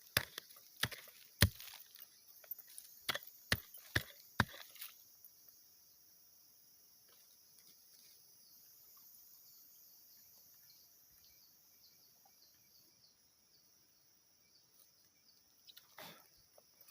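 A digging tool strikes into the earth about eight times in quick, uneven succession, then stops; a steady, high-pitched insect chorus continues underneath, with one more strike near the end.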